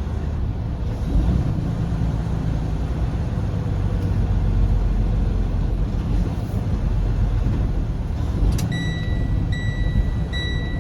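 Semi truck's diesel engine running with a steady low rumble. Near the end a high electronic beeping starts, long beeps with short gaps between them.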